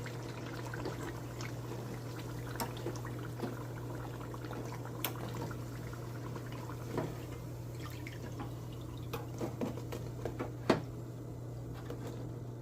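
Beignet dough deep-frying in hot oil: a steady sizzle with scattered sharp crackles and pops, over a steady low hum.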